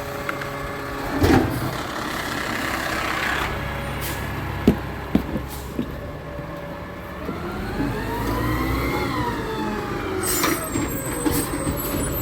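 Garbage truck's diesel engine running, with a few sharp clanks, then revving up and dropping back down about two-thirds of the way through.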